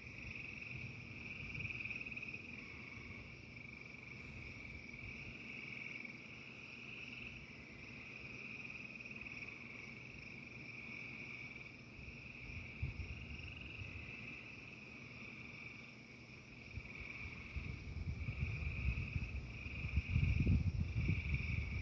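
A chorus of frogs trilling steadily in a high, unbroken band. In the last few seconds a low rumble swells beneath it.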